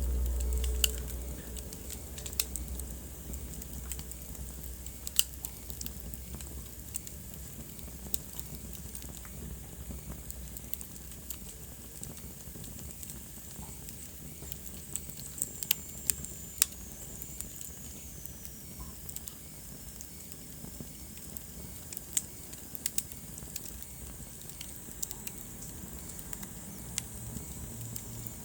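Wood fire burning in a fireplace, crackling with scattered sharp pops. There is a low rumble in the first few seconds, and a faint high whistle that slides lower in pitch around the middle.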